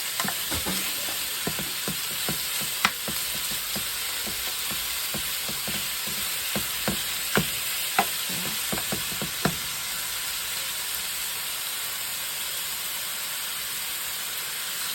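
Seasoned chicken breast pieces frying in olive oil in a hot pan: a steady sizzle, with scattered pops and light clicks through the first ten seconds or so.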